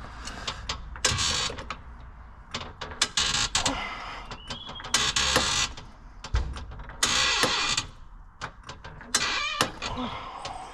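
Hand-tool work on a car: a rasping mechanical stroke about every two seconds, five in all, with sharp metallic clicks and knocks in between.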